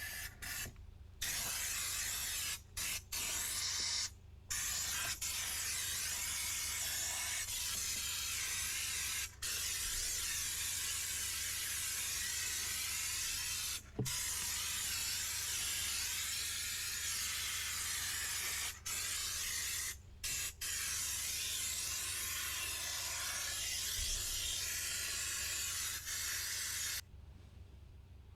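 Steam cleaner jetting a steady hiss of steam into a car's cabin air filter housing. The hiss breaks off briefly several times and stops near the end.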